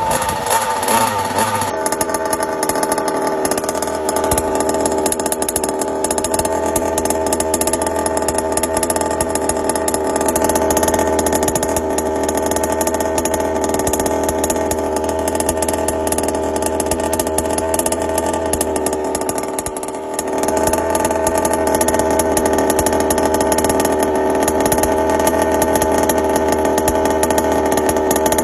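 Small two-stroke engine of a homemade ride-on toy car running steadily at high speed, with a note likened to a two-stroke Kawasaki Ninja motorcycle. It eases off briefly about twenty seconds in, then picks back up.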